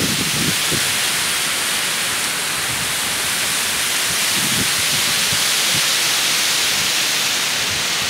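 Waterfall rushing steadily as water pours over rock ledges.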